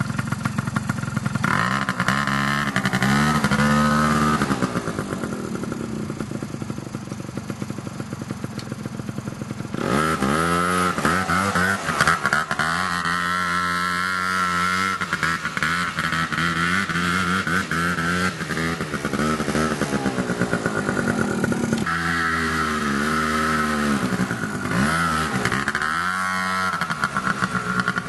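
Apache SX100 junior quad bike's small engine running, its pitch rising and falling again and again as it is revved up and eased off, with a steadier, quieter spell about a third of the way in.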